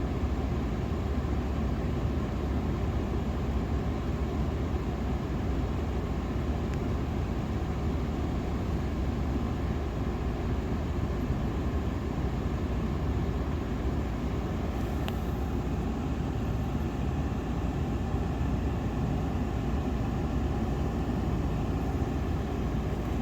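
Steady low rumble of a vehicle on the road, with one faint tick about fifteen seconds in.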